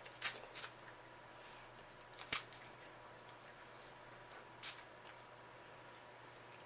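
Crab legs being broken and picked open by hand: a few short sharp shell cracks, the loudest a little past two seconds in, with soft wet squishing between.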